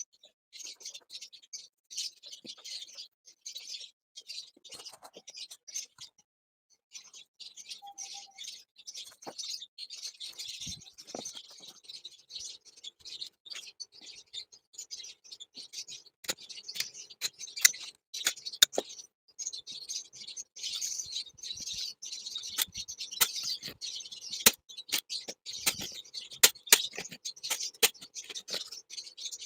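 Small cage birds chattering and chirping in rapid, continuous twitters, with a short pause about six seconds in. From the middle on, sharp clicks and taps come in among the chirps, and these are the loudest sounds.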